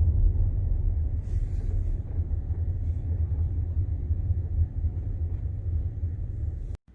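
Low, steady rumble of a Tesla Model X on the move: road and tyre noise, with no engine note. It cuts off suddenly near the end.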